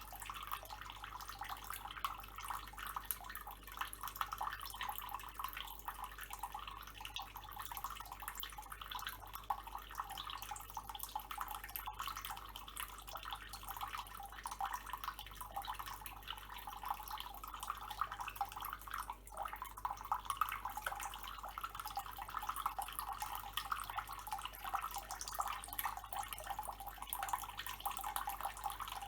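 Tap water running in a thin stream and splashing steadily, with a constant fine dripping crackle.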